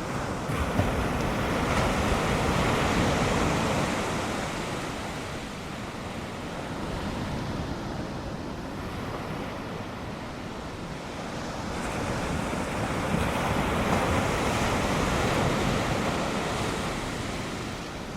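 Ocean surf: waves breaking and washing up the beach, swelling louder twice, with some wind.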